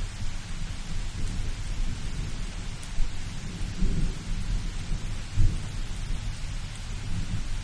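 Thunderstorm: steady rain hiss with low thunder rumbling underneath, swelling several times in the middle, loudest about five and a half seconds in.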